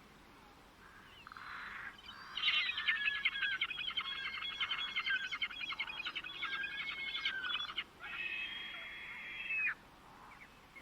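A songbird singing a long, fast, warbling song of rapid trills and whistles, then a shorter whistled phrase near the end.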